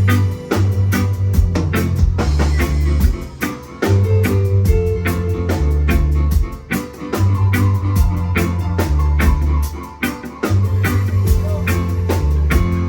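Live reggae band playing an instrumental passage: a heavy bass line repeating in phrases of about two seconds, with drum kit, guitar and keys over it.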